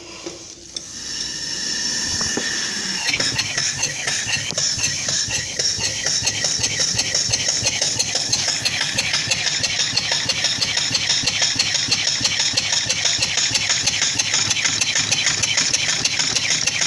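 Scratch-built double-acting steam engine starting up: a hiss about a second in, then from about three seconds a fast, steady run of exhaust puffs and valve-gear clatter. It has no exhaust system yet, so it exhausts straight out of the valve.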